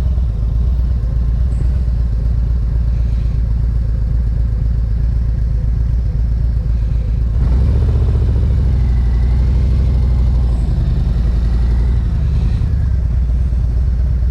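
Motorcycle engine running with a steady low rumble, growing louder and fuller about seven and a half seconds in.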